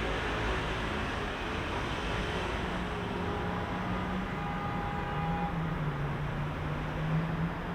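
Heavy rush-hour road traffic: a steady din of car engines and tyres with a low engine hum, and a faint high tone for a couple of seconds midway.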